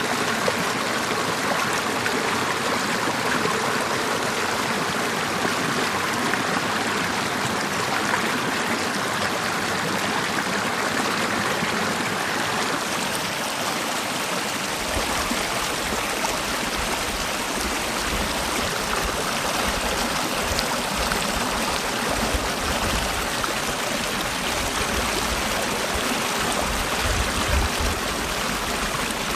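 Mountain stream rushing over the rocks of a valley, a steady, even rush of water. A low rumble joins it about halfway through.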